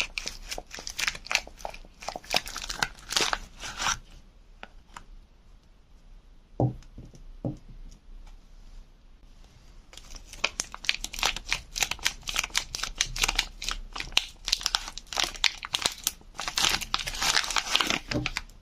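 Soap wrapping being unwrapped by hand, with dense crinkling and tearing rustles. Midway there is a quieter pause with a couple of short knocks, then the crinkling starts again.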